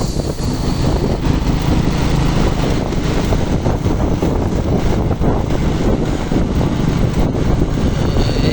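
Steady wind buffeting on the microphone over a truck on the move, its engine running.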